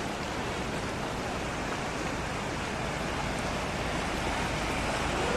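Fast floodwater rushing: a steady, even noise that swells slightly towards the end.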